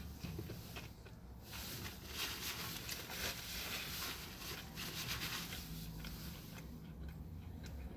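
A person chewing a mouthful of fried chicken and waffle sandwich with the mouth closed: soft, irregular chewing noises over a steady low rumble.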